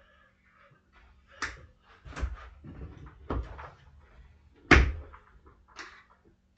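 Steel tire irons knocking and clanking against a dirt bike wheel rim while prying the tire bead off: about five separate sharp knocks with dull thuds, the loudest about three-quarters of the way through.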